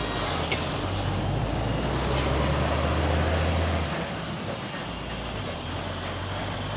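Heavy truck's diesel engine running with a deep, steady drone, loudest through the middle and easing off about four seconds in.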